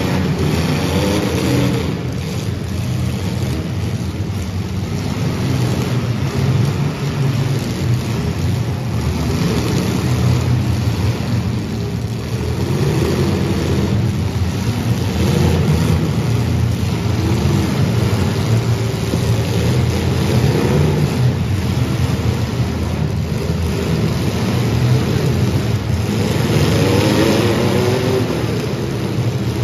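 Several demolition-derby compact cars' engines running and revving hard, their pitch rising and falling again and again.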